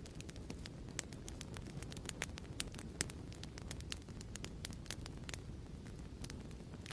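Crackling fireplace: frequent irregular sharp pops and crackles over a steady low rumble of the burning fire.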